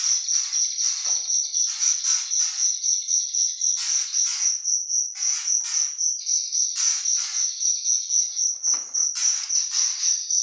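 A cricket chirping without a break in a fast, even pulse, with repeated short bursts of rustling over it.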